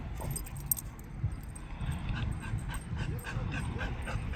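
A dog whining, with a run of short, quickly repeated high whimpers in the second half.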